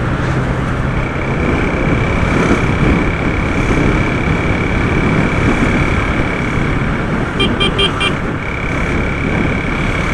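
Riding noise from a Honda CG 150 motorcycle in traffic: a steady rush of wind and road noise over the running engine. A steady high whine runs through most of it, and a short run of about four quick beeps comes about three quarters of the way in.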